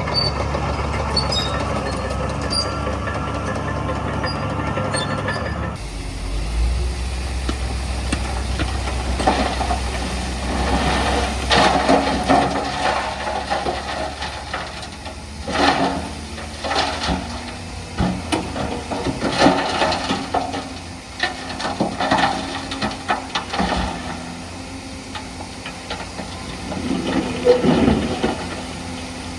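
Heavy earthmoving machinery at work: a diesel engine runs steadily, then after an abrupt change about six seconds in, irregular clanks, knocks and rattles sound over a lower engine hum.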